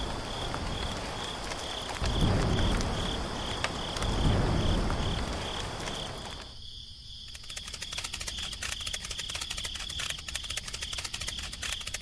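Rain ambience with two low rumbles of thunder in the first half, under a steady pulsing cricket chirp. About halfway through, the rumbling stops and a dense, fine patter of raindrops takes over.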